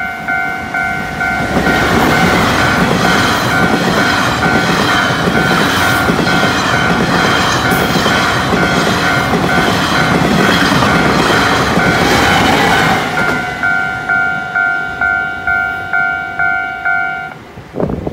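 Level-crossing warning bell dinging steadily about twice a second while a Taiwan Railways Tze-Chiang express train runs past close by, its wheels and cars rushing by for about eleven seconds. After the train has gone the bell carries on alone and stops shortly before the end.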